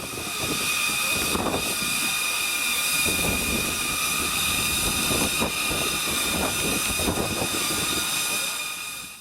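Steam tank engine hissing steadily, a continuous rush of steam with a few high, fixed tones in it, over faint voices of people nearby.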